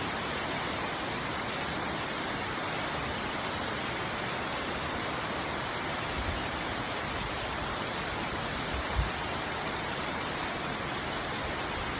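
Heavy rain falling in a steady, even hiss, with two brief low thumps about six and nine seconds in.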